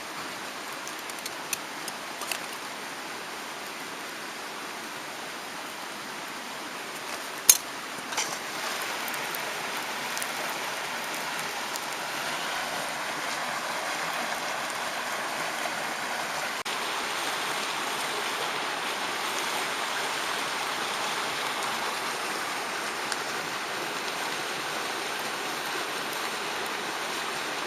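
Mountain stream rushing steadily, a little louder from about eight seconds on. A few small clicks come in the first couple of seconds, and one sharp click about seven and a half seconds in.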